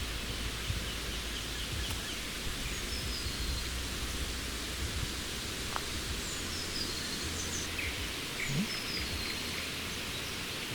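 Forest ambience: scattered short, falling bird chirps over a steady rustling hiss and a low rumble.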